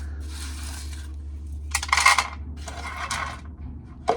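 Dry corn kernels rattling and scraping as ears are shelled by hand into a tub. The rattling comes in three spells, the loudest in the middle, with a sharp click near the end.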